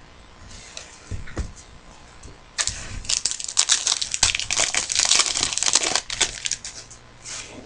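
A trading-card pack wrapper being torn open and crinkled: a dense crackling for about three seconds in the middle, after a couple of soft knocks.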